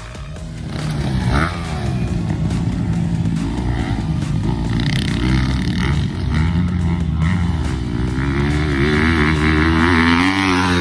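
Motocross bike engine revving hard, its pitch rising and dropping again and again as it accelerates and shifts.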